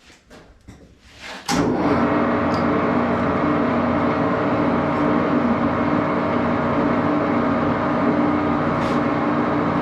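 1941 Axelson gear-head lathe starting up after a few light clicks, coming on abruptly about a second and a half in and then running steadily with a hum made of several steady tones.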